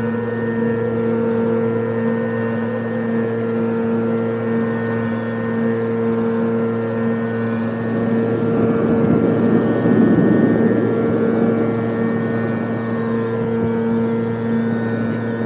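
Recorded Ferrari engine sound played through a speaker on an electric unicycle, running at a steady pitch with no revving. A rushing noise swells over it and fades about ten seconds in.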